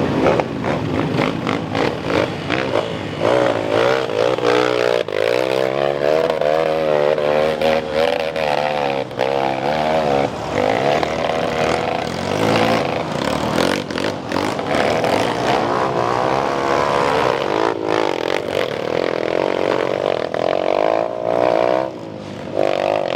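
Motocross dirt bike engines revving hard, pitch swinging up and down as the riders work the throttle, with more than one bike's engine overlapping at times and short clattering clicks throughout.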